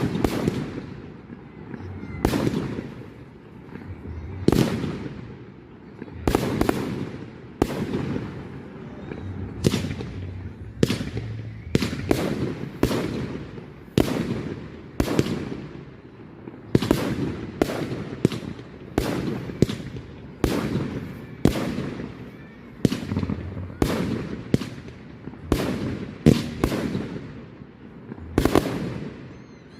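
Fireworks bursting in quick succession at a display: a sharp bang about every second, some coming in close pairs, each dying away with a short echoing tail.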